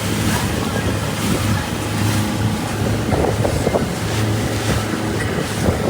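Motorboat under way: a steady low engine drone under wind buffeting the microphone and rushing water.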